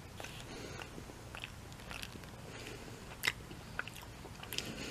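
A person chewing a mouthful of breaded chicken nugget close to the microphone, with scattered small crunches and clicks, one sharper click about three seconds in.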